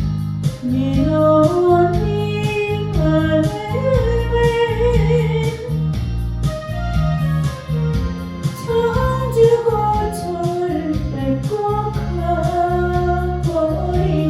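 Korean trot song sung over a backing track, with guitar, bass and a steady beat under the sung melody.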